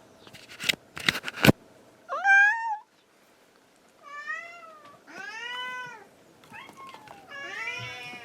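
Domestic cat meowing repeatedly, about five meows, each call rising and then falling in pitch. There are a few sharp clicks or knocks about a second in, before the meows begin.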